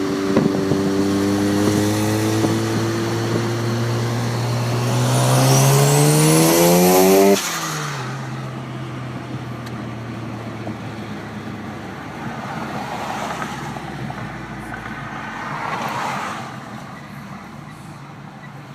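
Turbocharged car engine at full throttle, pitch climbing steadily for about seven seconds with a high whistle rising over it. It then cuts off sharply as the throttle lifts and drops to a lower, quieter running note that fades away.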